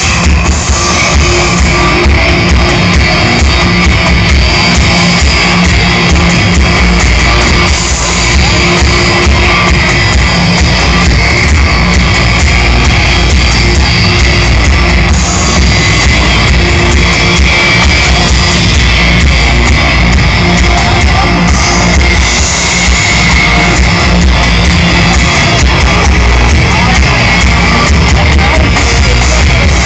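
Very loud rock music with guitar and singing, played live and picked up on a phone.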